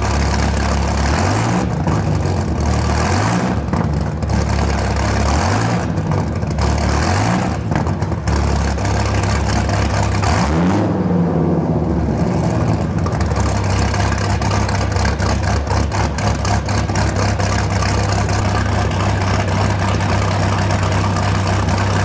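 1997 Dodge Viper GTS's 8.0-litre V10 running on a cold start. The idle shifts up and down in pitch for the first several seconds, then settles to a steady idle.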